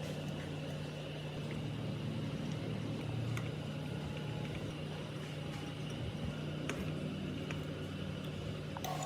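Restored automatic pressure water pump running on test, its electric motor giving a steady hum, with a few faint ticks.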